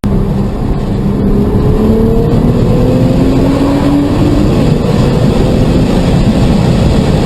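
Car engine accelerating, its pitch climbing over a couple of seconds, under a loud, steady rush of road and wind noise.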